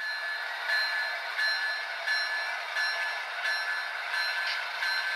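HO scale model diesel locomotives' sound decoders playing through small onboard speakers: a steady engine-like hiss with no deep bass, and a ringing tone that swells about every 0.7 s, about seven times.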